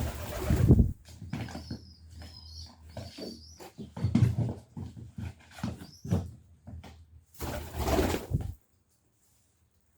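Pigeons at close range: two long bursts of flapping and rustling, one at the start and one near the end, with shorter scuffles and faint high squeaks between them. The sound cuts off abruptly near the end.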